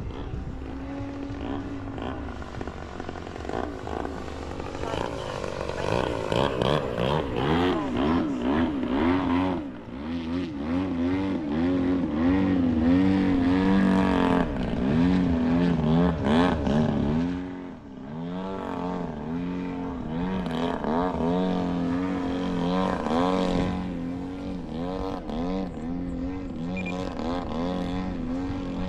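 Electric-powered Extreme Flight Extra 260 67-inch RC aerobatic plane flying, its motor and propeller whine rising and falling in pitch again and again as the throttle changes and it passes back and forth. It is loudest in the middle stretch, with brief drops in level about nine and a half and seventeen and a half seconds in.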